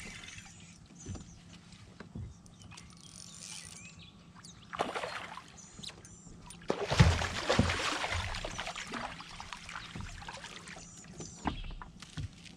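Water splashing and knocks against a fishing kayak, in short bursts, the loudest about seven seconds in.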